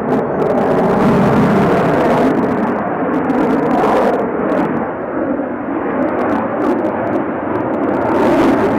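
Fighter jet's engines: a loud, steady rush of jet noise with its weight in the low and middle range.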